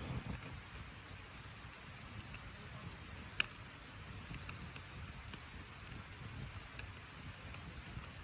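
Wood fire of burning box boards crackling softly, with scattered small ticks and one sharp pop about three and a half seconds in.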